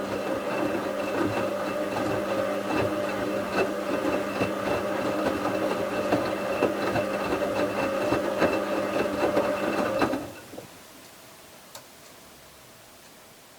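Bauknecht WA 7778 W front-loading washing machine tumbling its drum during the wash: the brushed drive motor hums steadily while the load knocks and clicks, then the drum stops about ten seconds in and rests. The drum bearing is already worn, though not yet badly.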